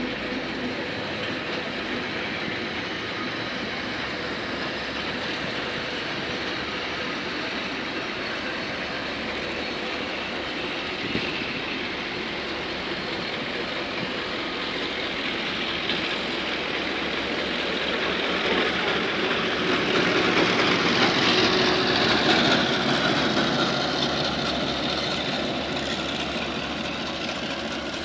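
Vintage railway carriages rolling slowly past in reverse, pushed by a New Zealand DA class diesel-electric locomotive, with a steady rumble of wheels on rail. The noise swells about two-thirds of the way through, with a high tone sliding down in pitch, as the train's far end and the locomotive come near.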